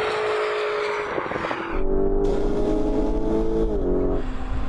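Cars running hard at the end of a drag run: first a steady whine over the rush of speed, then, about two seconds in, a deeper engine rumble with a rising note that falls away near the end as the car slows.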